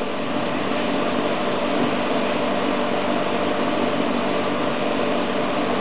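Glass drilling and countersinking machine running steadily, a constant motor hum made of several steady tones.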